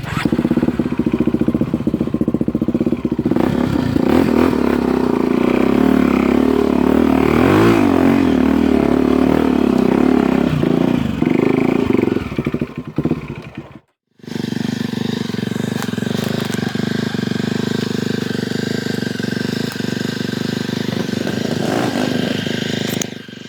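Dirt bike engine running, revved up and back down once around the middle. The sound cuts out completely for a moment about 14 seconds in, then the engine runs on steadily.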